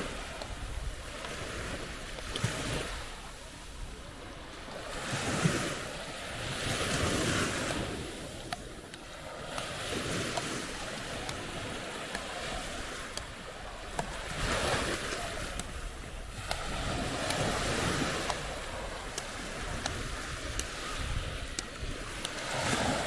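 Waves breaking and washing up the shore, the rush of water swelling and fading every few seconds.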